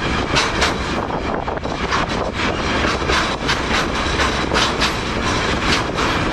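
A freight train in motion, heard from on board the car: a steady rumble and rattle, broken by frequent irregular clanks from the wheels and couplings.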